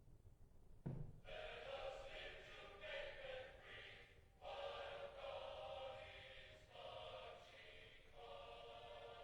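Faint, thin-sounding singing with music, voices together like a choir or congregation, starting about a second in and pausing briefly between phrases.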